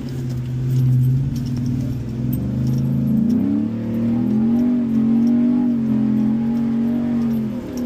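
First-generation Ford F-150 Raptor's V8 engine heard from inside the cab on a dirt track: it runs steadily, climbs in pitch about three seconds in as the truck accelerates, holds high, then drops off near the end. Light rattles and clicks come over it.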